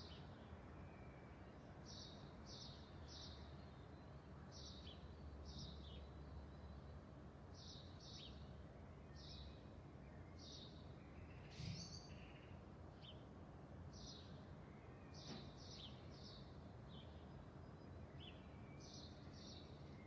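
A songbird singing faintly over a low steady background rumble: short, high, falling notes, mostly in pairs, repeated every second or so. One louder, sharper sound stands out a little past halfway.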